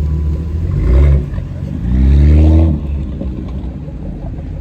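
Car engine idling with a low rumble, revved twice: a short blip about a second in, then a longer rev that climbs in pitch and drops off sharply.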